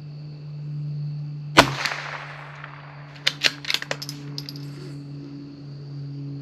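A single .22 LR shot from a CZ 457 bolt-action rifle, followed about a second and a half later by a quick run of sharp metallic clicks as the bolt is worked to eject the case and chamber the next round.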